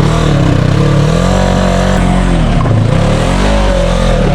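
Polaris RZR 900 side-by-side engine revving hard in several surges, its pitch climbing and dropping as the throttle is worked to drive up a muddy obstacle.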